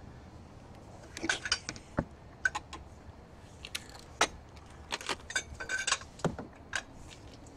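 Scattered metallic clicks and clinks of hand tools and brake hardware being handled, some with a short ring.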